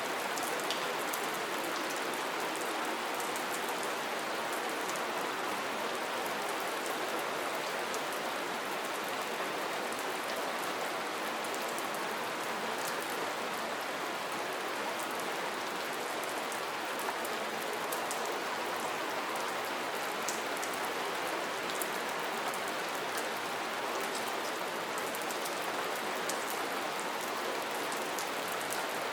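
Steady rain falling: an even hiss of rain on surfaces with fine scattered drop ticks, constant throughout.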